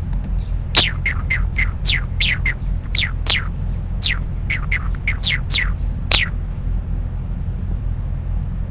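Model-generated songbird song played back: a quick run of about fifteen short chirps, each sliding down in pitch, over about five and a half seconds, with a steady low hum underneath. It is a synthesized imitation of a natural song and sounds a bit chattering.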